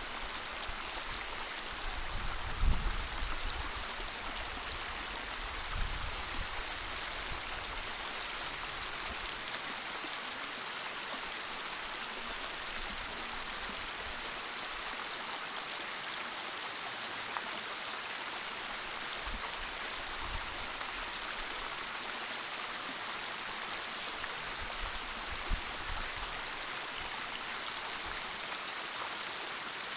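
Waterfall water rushing in a steady, even hiss, with a few brief low thumps, the loudest about two and a half seconds in.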